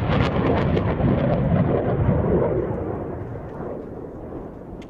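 Rocket motor roar from an M142 HIMARS launch: a rumbling roar, loudest in the first two seconds, then fading steadily as the rocket climbs away.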